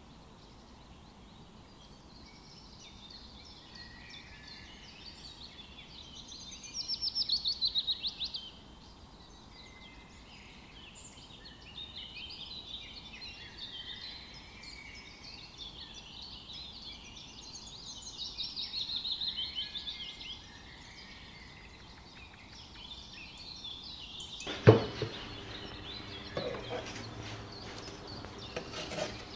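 Birds chirping steadily, with two louder rapid trills, one about 7 seconds in and one about 19 seconds in. A single sharp knock about 25 seconds in is followed by a few lighter clatters.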